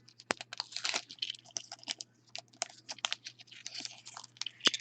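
Trading cards and their plastic wrappers and sleeves being handled: irregular crinkling with many small clicks and taps.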